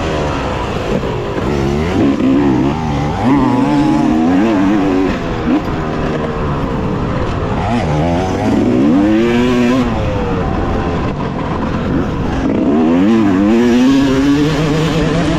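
2018 Yamaha YZ250X two-stroke dirt bike engine under hard riding, its pitch climbing and dropping again and again as the throttle is opened and shut and the gears are shifted. The revving is heard over a steady rushing noise.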